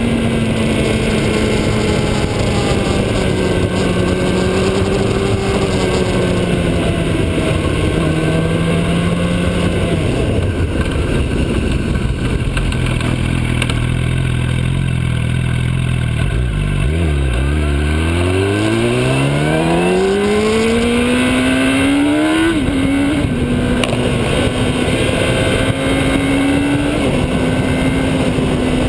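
Motorcycle engine running on the move. Its pitch eases down and holds low, then climbs steadily as the bike accelerates from about two-thirds of the way in. It drops back at a gear change and then holds steady at cruising speed, over constant rushing noise.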